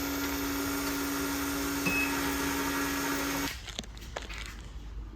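Steady in-cabin road and engine drone of a twin-turbo Pontiac G8 cruising, a constant hum with hiss over it. It cuts off abruptly about three and a half seconds in, leaving a much quieter background with a few faint clicks.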